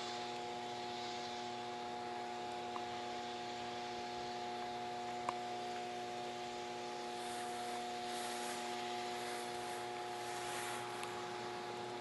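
Steady electrical hum from a large power station, several even tones held without change, over a background hiss that swells in the second half. A faint click about five seconds in.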